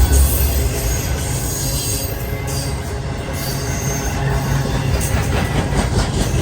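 A train rolling past with a heavy low rumble of wheels on rail, and high-pitched wheel squeal coming and going over it.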